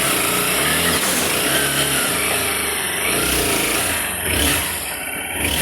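Honda XRE 190's single-cylinder engine running, with the throttle blipped a couple of times near the end. The engine carries a strange noise that comes and goes, which the mechanic takes for a worn clutch primary-shaft bearing with excessive play.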